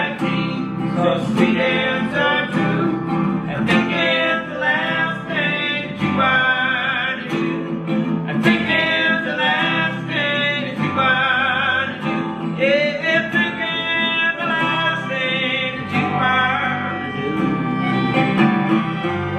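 A live roots band playing a song: plucked guitar over a steady bass line, with percussion hits and a wavering melodic lead line on top.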